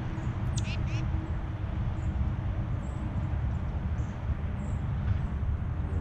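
A bird gives two short, harsh calls that sweep downward in pitch, about a third of a second apart and a little over half a second in, with faint high chips later on. A steady low rumble runs underneath throughout.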